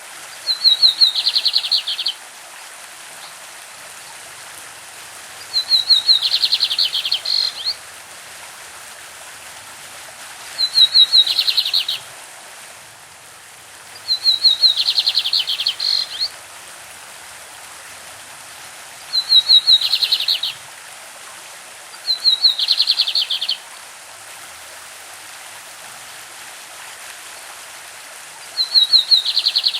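Lined seedeater (bigodinho) singing its classic song: seven short phrases a few seconds apart, each opening with a quick run of high notes and going into a fast, buzzy trill a little lower in pitch. A stream babbles steadily underneath.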